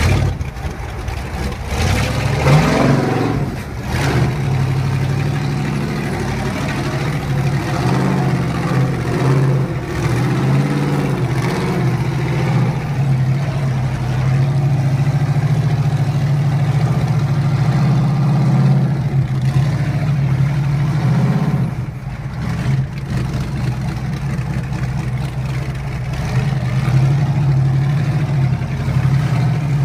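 Engine of a tube-chassis rock-racing car running under load as it crawls over boulders. Its revs rise and fall with the throttle, with a short dip about two-thirds of the way through.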